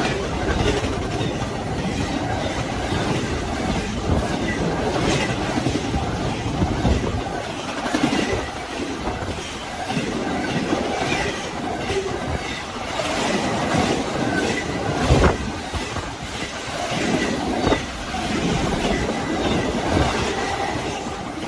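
Double-stack intermodal freight train passing close at speed: a continuous rumble and rush of steel wheels on the rails, with irregular clanks and clatter from the cars and two louder bangs in the second half.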